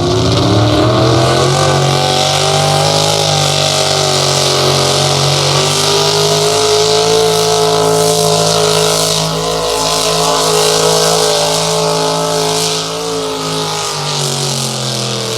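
A competition puller's engine runs at full throttle, hauling the weight sled down the track under heavy load. The revs climb in the first second or so, hold high and steady, then drop away near the end as the run finishes.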